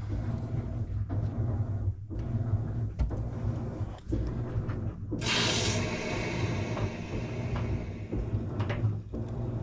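Water supply valve opened to turn the house water back on: about five seconds in, a sudden loud hiss of water rushing through the pipe starts and fades over a few seconds. A steady low rumble with occasional knocks runs underneath.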